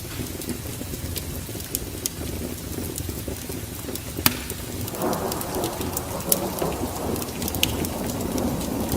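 Wood fire crackling with sharp pops over a steady low rumble. About five seconds in, a rush of rain with a rolling rumble of thunder comes in and continues.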